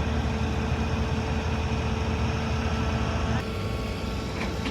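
Car engine running with a steady low drone. The sound changes abruptly about three and a half seconds in.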